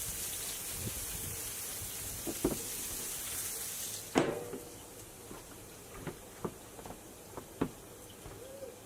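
Steak cooking on an outdoor grill: a steady sizzling hiss with soft clicks, then a sharp metal clank with a short ring about four seconds in, after which the hiss is quieter. Light taps and clicks of utensils on the grill follow.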